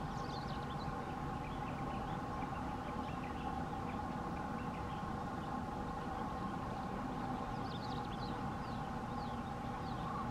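A distant train running, heard as a steady drone with several held tones, with small birds chirping in short falling notes over it.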